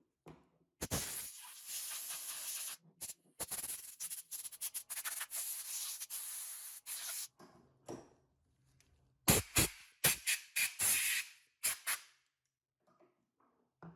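A spray hissing in on-off bursts: one long spell broken by brief pauses, then a run of about six short blasts.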